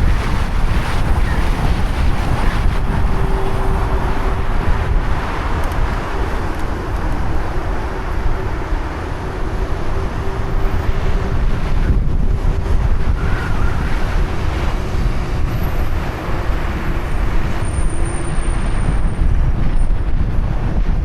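Steady low rumble of wind on the microphone of a moving bicycle, mixed with the noise of road traffic. A faint steady hum runs through most of it.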